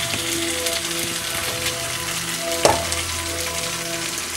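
Potstickers sizzling and crackling in a nonstick skillet as the last of the steaming water boils off and the pan goes almost dry. There is a single clunk about two-thirds of the way through.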